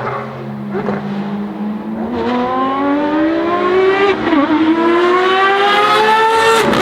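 Ferrari FXX Evoluzione's V12 under hard acceleration, getting louder as it approaches: the engine note climbs, drops briefly at a quick upshift about four seconds in, climbs again, and drops at another upshift at the very end.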